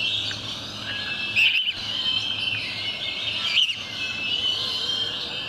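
A dense chorus of many birds chirping and calling, with two louder short calls standing out, about a second and a half in and again two seconds later.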